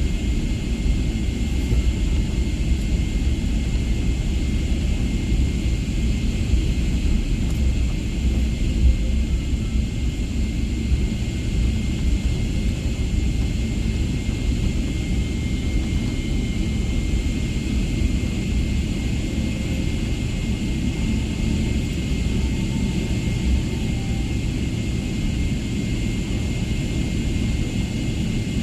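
Steady low rumble of a parked airliner's cabin, its air system running, with a faint steady high whine over it.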